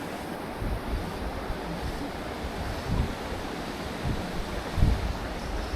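Stream water rushing steadily, with low gusts of wind on the microphone a few times.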